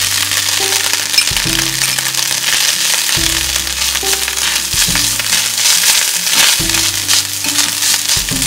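Grated coconut sizzling as it fries in hot coconut oil in a stainless steel pan and is stirred with a spoon: a loud, steady hiss with small crackles. Background music with low held notes plays underneath.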